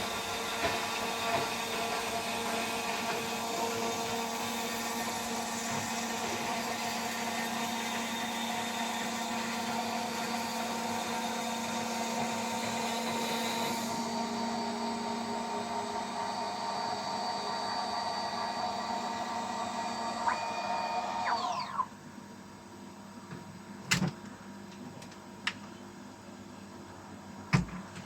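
High-speed spindle of a DIY CNC machine running with a steady whine, its hiss thinning about halfway through. Near the end the spindle winds down with a falling pitch, and a few sharp clicks follow.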